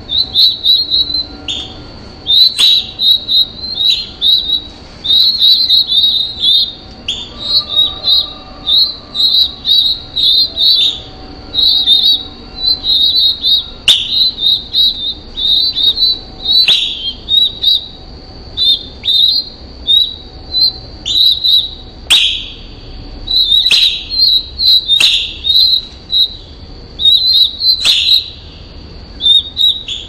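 Songbird calls: rapid high chirps in quick bouts of a second or two, broken in the second half by several down-slurred whistles, with a few sharp clicks.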